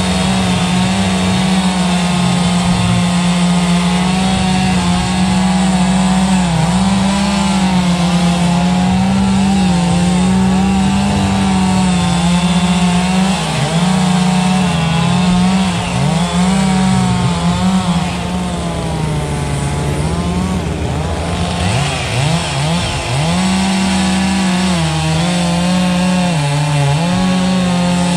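Holzfforma two-stroke chainsaw running near full throttle while cutting wood. Its pitch dips and recovers again and again as the chain loads up in the cut, most of all in the middle of the stretch.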